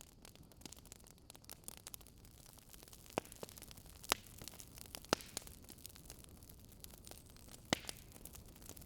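Wood fire crackling: a soft steady hiss with many small crackles and four sharper pops spread through the middle.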